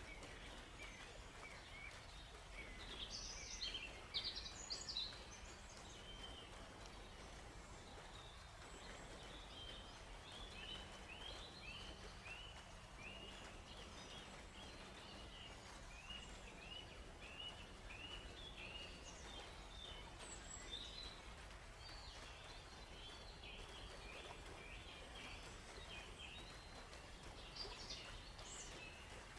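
Small forest birds chirping, with a louder flurry of high chirps about three to five seconds in and a run of short, evenly repeated chirps through the middle; a faint steady low rumble underneath.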